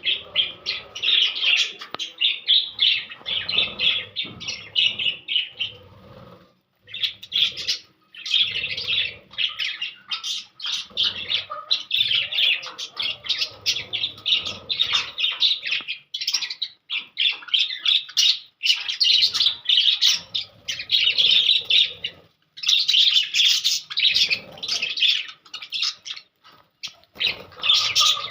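Small Australian parrots chirping and chattering in rapid runs, with a few short breaks.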